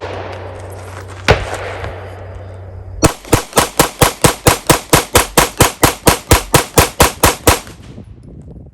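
SAR 9 9mm pistol fired rapidly in a long string of about twenty shots, roughly five a second, emptying a 22-round magazine with a +5 extension. A single shot rings out about a second in, before the rapid string starts about three seconds in.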